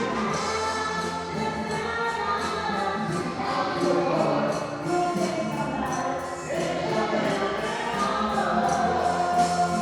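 Music with a choir singing held, changing notes over light percussion keeping a steady beat.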